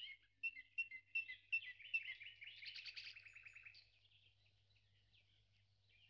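Songbird singing: a run of evenly spaced chirping notes, then a fast trill about two and a half seconds in, fading to faint notes after about four seconds.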